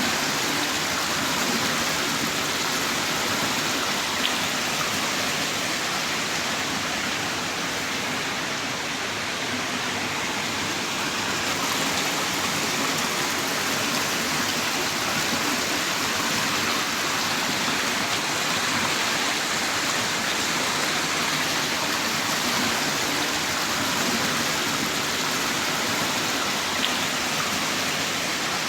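Heavy rain pouring down in a steady, dense hiss, with a faint tick or two of single drops.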